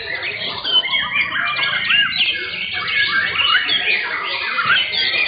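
Many young white-rumped shamas singing at once, a dense chorus of overlapping whistles, chirps and quick rising and falling notes.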